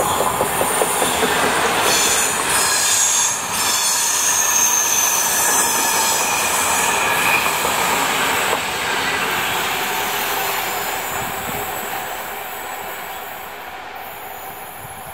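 Freight train passing at speed: a Class 66 diesel locomotive goes by, then a long rake of empty ballast hopper wagons rolls past with heavy wheel-and-rail noise and high-pitched wheel squeal. About nine seconds in, the sound begins to fade steadily as the train moves away.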